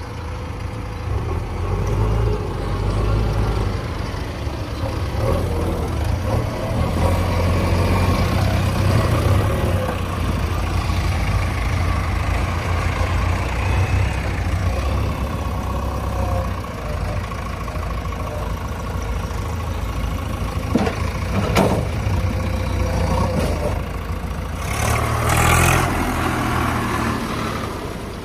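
Tractor engine running steadily with a low rumble, a sharp knock about three-quarters of the way through and a short, loud, noisy burst a few seconds before the end.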